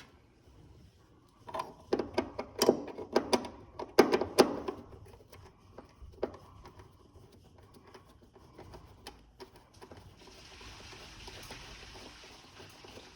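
Quick run of sharp clicks and knocks of hand tools and parts being worked on a gas furnace while screws are backed out and a P-trap is loosened, with a few single ticks after. A faint steady hiss sets in near the end.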